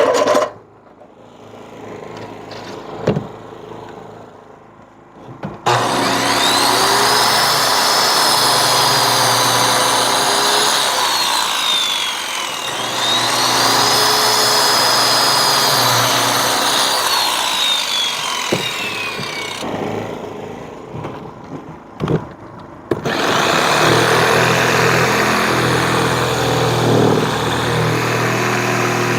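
Electric chop saw powered by the generator, spun up twice with a rising whine, running loud while cutting pipe, then winding down, and started again near the end. Between runs the generator hums under load, with a few clicks.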